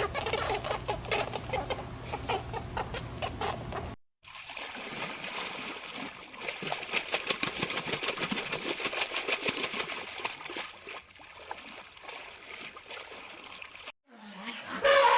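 Chickens clucking for about four seconds. After a cut comes about ten seconds of splashing and trickling water, then after another cut a short pitched call begins near the end.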